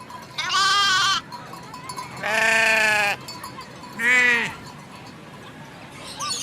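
Three bleats from livestock, each a wavering cry under a second long; the middle one is lower and harsher, and the last falls in pitch at its end.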